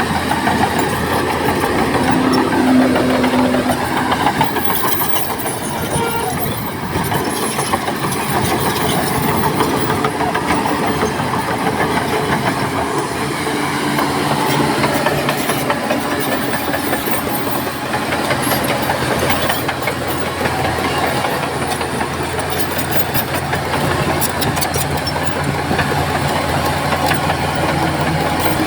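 Heavy diesel earthmoving machinery working: a Shantui crawler bulldozer's engine running steadily under load, with a continuous mechanical clatter.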